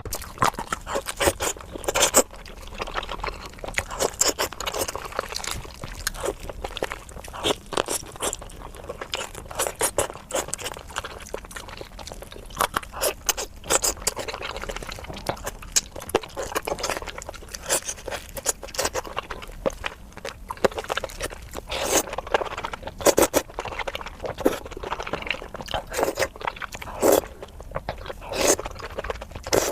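Crispy chicken being bitten and chewed close to the microphone: frequent sharp, irregular crunches throughout.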